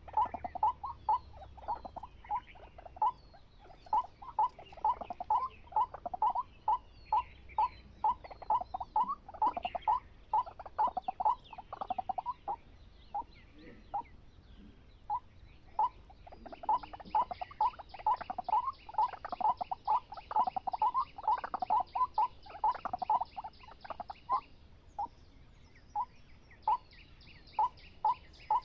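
A rapid series of short croaking animal calls, two or three a second, sometimes crowding together and sometimes thinning out. A high, even buzz joins about halfway through, stops briefly, and returns near the end.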